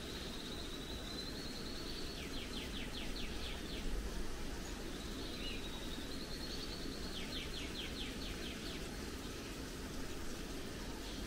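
A songbird sings twice. Each song is a fast high trill that rises slightly and then breaks into a quick run of about ten separate notes. A steady low hum of background noise lies underneath.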